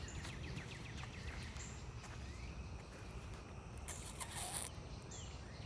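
Outdoor marsh ambience: faint bird chirps over a steady low rumble, with a brief louder rustle about four seconds in.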